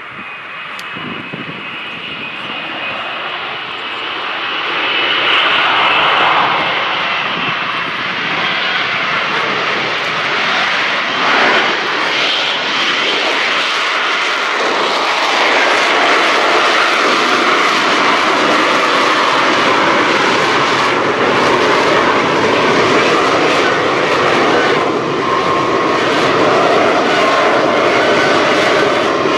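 Lockheed Martin F-35B Lightning II's jet engine running loud and close, a dense roar with a thin high whine over it. It swells about five seconds in and stays loud.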